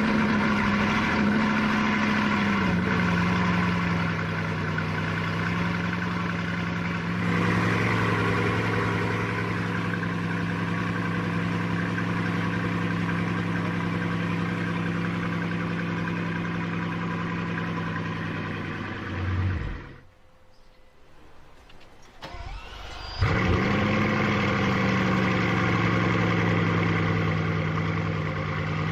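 Car engine with a loud aftermarket exhaust started, flaring briefly before settling into a steady idle. It is shut off about two-thirds of the way through, and after a short pause an engine is started again with the same flare and settles back into idle.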